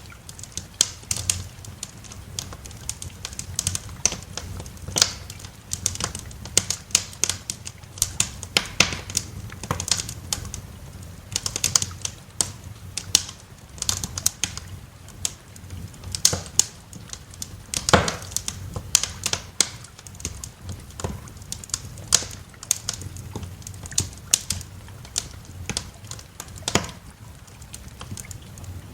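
Wood fire in a fireplace crackling, with irregular sharp pops several times a second and a somewhat louder snap about two-thirds of the way through, over a low steady rumble.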